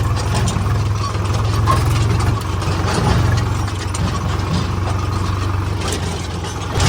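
Tractor diesel engine running with a steady, low, rapidly pulsing beat.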